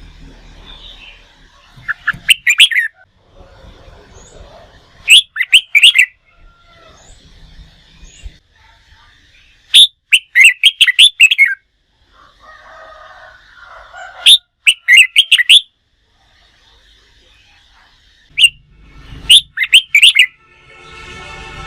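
Red-whiskered bulbul singing: short loud phrases of quick chirping notes, repeated in five bursts with pauses between.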